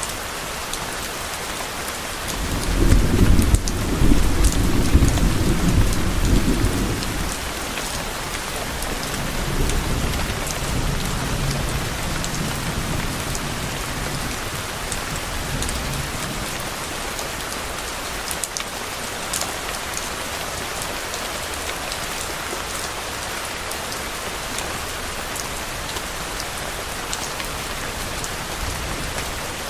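Steady rain falling, with a deep rumble of thunder that swells about two seconds in, peaks and fades after a few seconds, followed by a weaker, longer roll of thunder that dies away; then rain alone.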